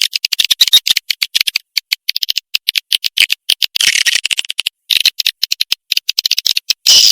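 Swiftlet calls as used on a lure recording to attract swiftlets: a rapid, dense twittering of short high chirps. A longer burst comes midway, and louder, longer calls begin near the end.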